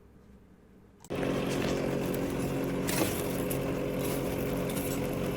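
A steady electric motor-driven shop machine starts running about a second in, with a constant hum and a noisy whir, and a few light metallic clicks over it.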